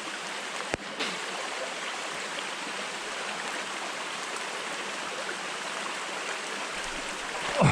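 Small mountain spring stream running, a steady even rush of water, with one brief click just under a second in.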